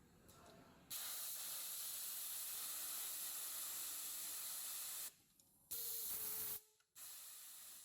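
Compressed air hissing from the pneumatics of an automatic shirt-hem coverstitch machine. It comes as a long blast of about four seconds, then a short one, each starting and stopping abruptly, and is followed by a fainter steady hiss.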